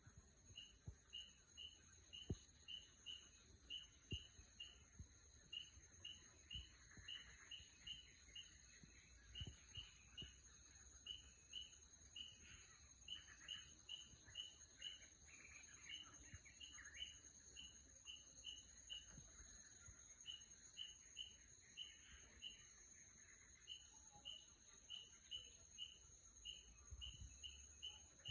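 A bird chirping over and over in quick pairs of short notes, a couple of pairs a second with brief pauses, faint against a steady high-pitched hum.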